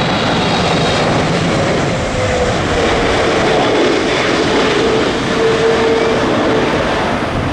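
Jet airliner landing close by in a strong crosswind: a loud, steady rush of engine noise with a faint tone that slowly falls in pitch as it passes.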